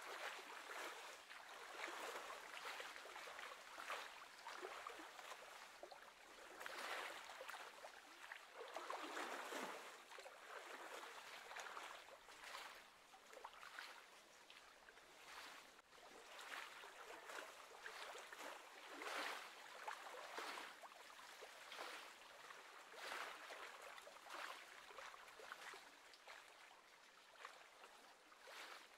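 Faint lapping of small waves on lake water, swelling and fading every second or two.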